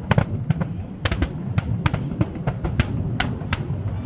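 New Year's Eve fireworks going off: a quick, irregular string of sharp cracks and pops, several a second, over a steady low rumble.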